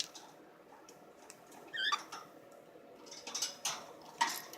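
A pet bird gives one short chirp about two seconds in, followed by a few sharp scratchy clicks and rustles.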